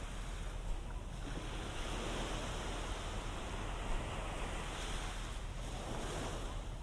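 Ocean waves washing onto the beach in a steady surf, with some wind on the microphone.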